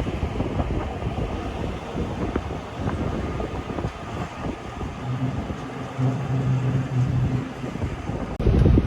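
Rhaetian Railway regional train running on the Bernina line, with steady running noise and many small clicks and rattles from the wheels and carriage. A steady low hum joins in about five seconds in and lasts a couple of seconds. Near the end the sound changes abruptly to louder rushing noise.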